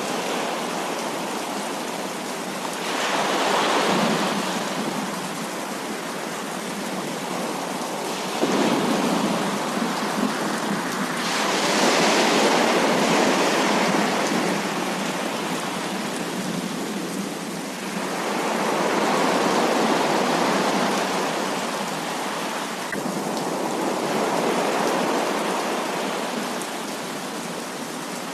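Heavy rain pouring steadily, swelling louder for a few seconds at a time, five times over.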